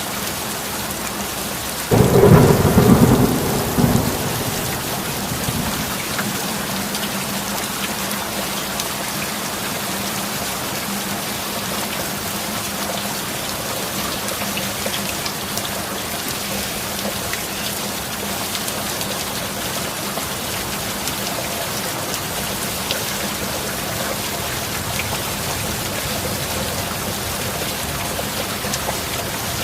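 Steady heavy rain with a sudden, loud thunderclap about two seconds in; its rumble dies away over the next few seconds.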